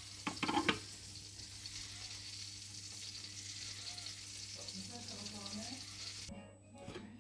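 Melted butter sizzling in a wide pan as freshly washed leeks are tipped in, with a short clatter under a second in as they go in. The sizzle stops abruptly about six seconds in.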